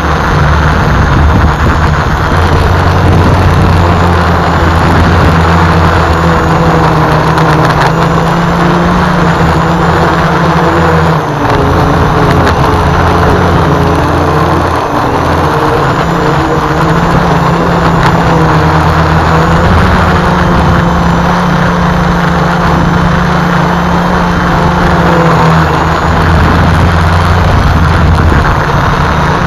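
A home-built multicopter's electric motors and propellers whining steadily, their pitch wavering up and down as the speed controllers change motor speed to hold the craft against gusty wind. The sound dips briefly about a third of the way in.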